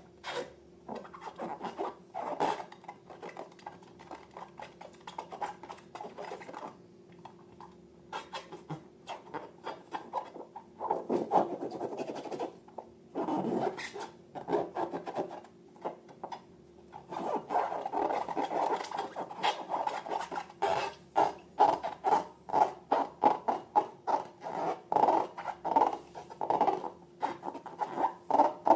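Slime being worked by hand, with short sticky squishing and crackling strokes. They are irregular at first and settle about halfway through into a steady rhythm of about two to three a second.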